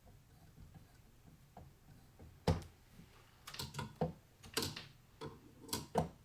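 Clicks and knocks of computer parts being handled during a PC build. Quiet at first, then from about two and a half seconds in an irregular run of sharp clicks and taps, with a loud knock at the start of the run and another near the end.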